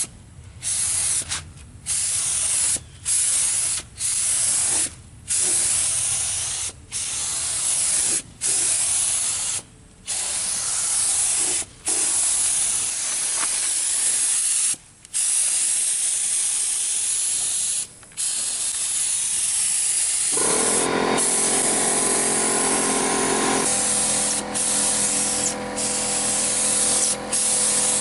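Cheap paint spray gun spraying heavy-duty primer: a loud hiss of air and atomised primer, cut by brief pauses as the trigger is let off, every second or two at first and then held for longer stretches. About two-thirds through, a steady mechanical hum joins in under the hiss.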